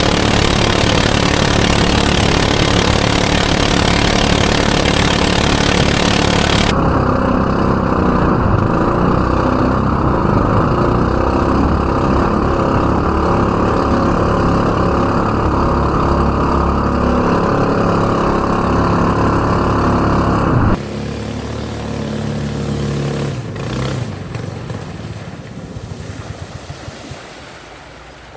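Small 8.5 hp outboard motor on a homemade mini speedboat, running hard at speed. A heavy rush of wind and water covers it for the first several seconds. The sound drops abruptly about three-quarters of the way through, then fades away.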